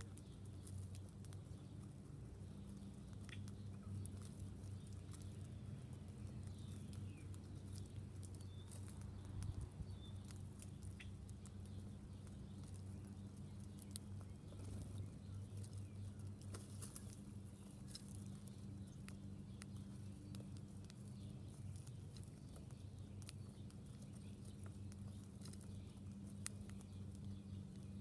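Birds and squirrels feeding, heard as light scattered clicks and taps, over a steady low hum. A few faint bird chirps come through, around a few seconds in and again about ten seconds in.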